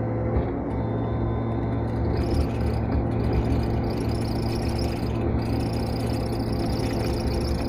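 Excavator's diesel engine running steadily as a continuous low drone while the machine works.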